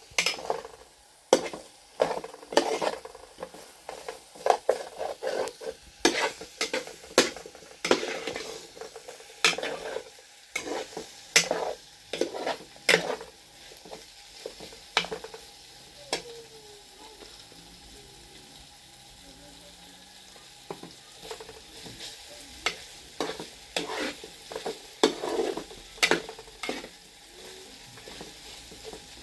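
A metal utensil scraping and stirring in a pan while food sizzles. The scrapes come in irregular strokes, about one a second, with a quieter stretch in the middle.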